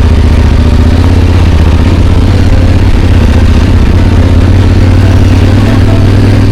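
Motorcycle engine running steadily at low revs, its pitch holding nearly even, as the bike picks its way over rough ground.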